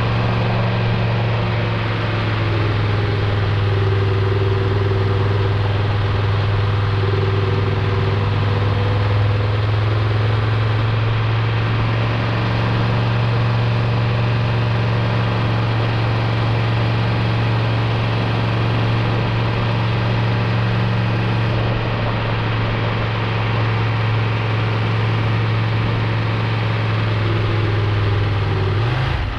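Triumph Tiger 1200 Rally Explorer's inline three-cylinder engine running at a steady cruising speed, holding one even note, with wind and road noise.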